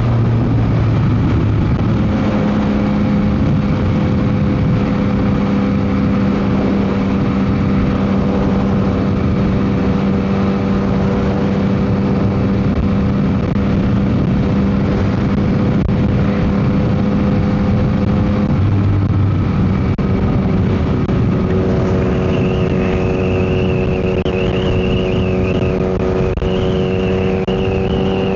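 Yamaha MT-09 SP's inline three-cylinder engine running through an aftermarket Dominator GP exhaust at a steady cruise, with heavy wind noise on the microphone. The engine note changes once about two-thirds of the way through, then holds steady again.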